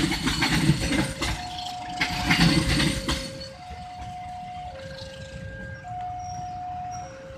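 Level-crossing warning alarm sounding a two-tone high-low signal, each tone held about a second. Over the first three seconds a passing train's loud rattling rumble drowns much of it, then dies away, leaving the alarm clear.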